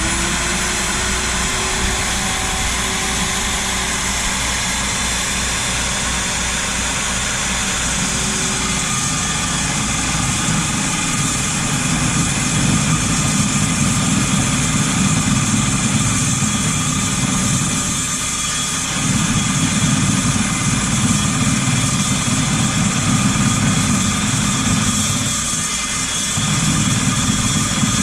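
14-inch low-rpm carbide-blade chop saw (metal cold-cut saw) running loud and steady with a high whine. From about ten seconds in, a rougher low grinding joins it as the blade is fed into metal, easing off briefly twice before it comes back.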